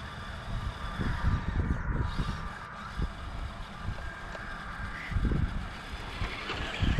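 Wind buffeting the microphone in irregular low gusts, over a faint steady whine from an RC scale crawler's electric motor and drivetrain.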